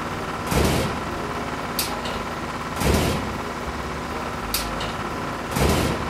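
Cartoon vehicle engine sound effect running steadily, with a short burst of noise about every two to three seconds and sharp clicks in between.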